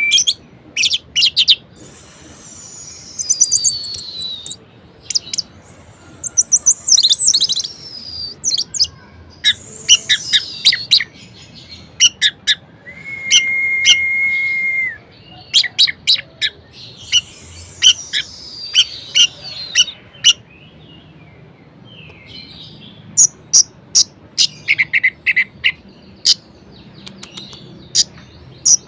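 Orange-headed thrush (anis merah) singing a long, varied song: descending whistled phrases, rapid sharp chips and trills, and a single held whistle about halfway through.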